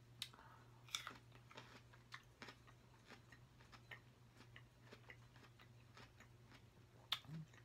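Faint close-up chewing of cantaloupe: scattered small wet clicks and smacks, with a sharper one about a second in and another near the end, over a low steady hum.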